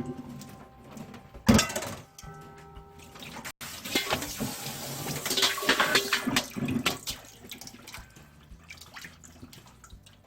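Close-miked eating of cold soy-milk noodles: wet slurping and sipping of the noodles and broth, loudest in a long slurp in the middle. A single sharp noise comes about one and a half seconds in.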